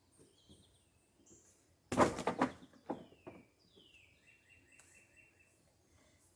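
Wooden boards knocking and clattering as they are shifted in a lumber pile, loudest about two seconds in, with two more knocks a second later. A songbird chirps in short falling notes before and after.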